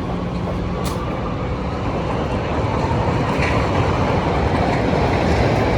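Chicago elevated L train passing overhead, its rumble and wheel clatter slowly growing louder, over a steady low engine hum.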